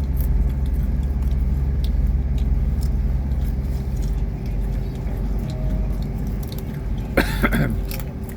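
Steady low rumble of a train running, heard from inside the carriage, with scattered crunching of crisps being chewed. A short vocal sound about seven seconds in.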